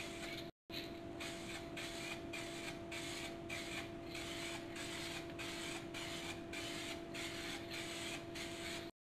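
Paintbrush scraping back and forth in quick, even strokes, about two to three a second, as a first coat of paint goes on. A steady low hum runs underneath.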